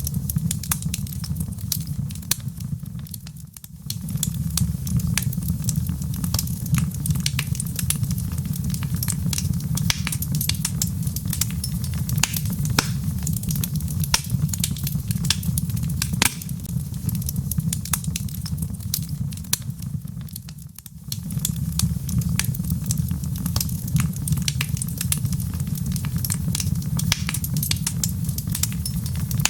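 Wood fire in a fireplace crackling, with dense sharp pops and snaps over a steady low rumble. The sound briefly drops away twice, about three seconds in and again about two-thirds of the way through, before picking up again.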